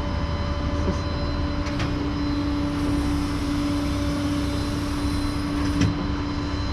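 Flatbed tow truck's hydraulic bed being lowered slowly, its pump giving a steady hum over the running truck engine.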